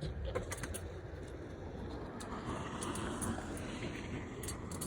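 Steady rolling and wind noise from riding a bicycle, with a few faint clicks.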